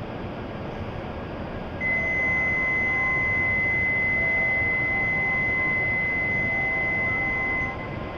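A single steady high-pitched electronic tone sounds for about six seconds, then stops, over the constant low noise of a shinkansen platform with a train standing at it.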